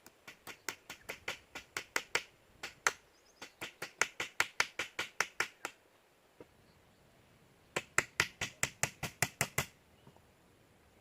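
A fast series of sharp taps or knocks, about five a second, in two runs with a pause of about two seconds between them.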